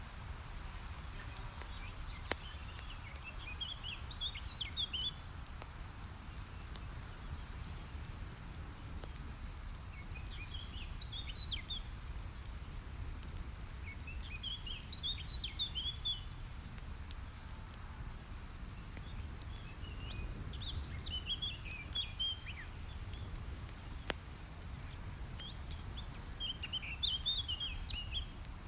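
A songbird sings short twittering phrases, five of them about five or six seconds apart, over a steady low rumble. A campfire crackles with a few sharp pops.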